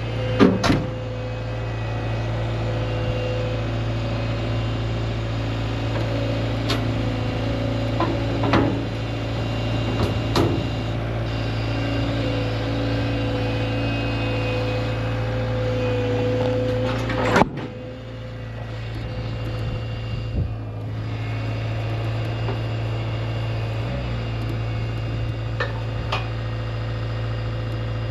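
A vehicle engine running steadily, with a held whine over it and occasional sharp clanks and knocks, the loudest about two-thirds of the way through.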